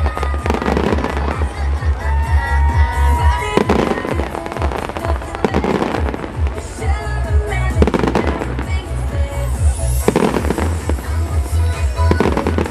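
Aerial fireworks going off about every two seconds, each burst trailing into crackle, over loud music with a steady bass beat.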